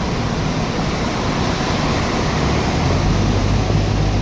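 Steady road noise of a car driving on a wet highway, tyres hissing on the water, with a low steady hum coming in about three seconds in.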